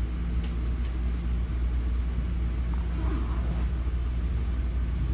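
Steady low rumble and hum of a commuter train heard inside the passenger coach as it pulls out of a station, with a few faint clicks.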